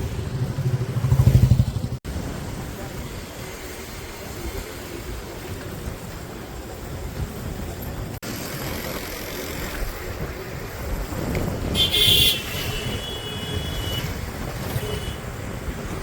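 Town street traffic heard from a moving motorbike: a steady mix of engines and road noise, with a loud low engine rumble passing about a second in. About three-quarters of the way through comes a brief high-pitched sound.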